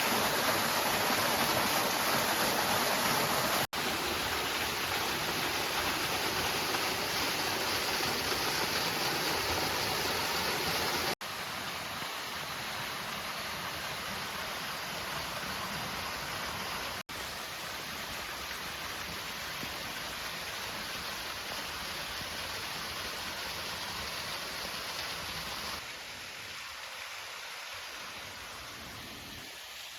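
Steady rushing water of a rain-fed mountain waterfall and its stream, heard in several short cuts that each come in a little quieter than the last.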